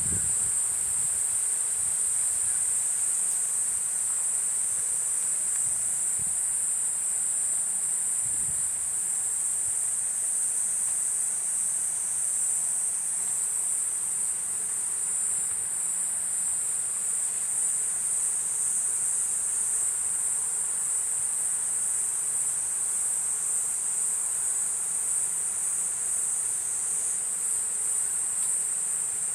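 Kuroiwa's cicada (Platypleura kuroiwae) singing: a continuous, high-pitched buzzing drone that holds steady.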